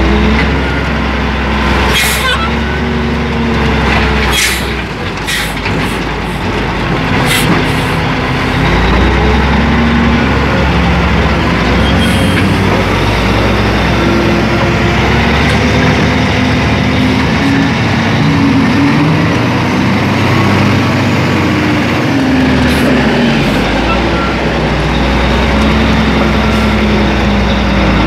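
Caterpillar 980F wheel loader's diesel engine heard from inside the cab, its pitch rising and falling over and over as it revs up and down. A few sharp knocks come in the first several seconds.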